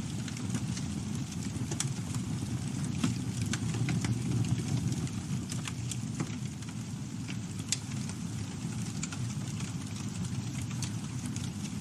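Campfire burning: a steady low rumble of flames with frequent scattered sharp crackles and pops from the burning wood.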